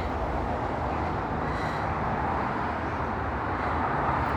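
Road traffic: the steady hiss and rumble of vehicles' tyres passing on a nearby main road, swelling slightly near the end.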